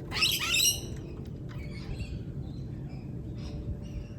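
Lorikeet giving a loud, harsh screech in the first second, followed by scattered softer chirps.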